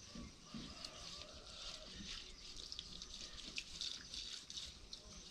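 Faint water dripping and splashing, with many small irregular drops.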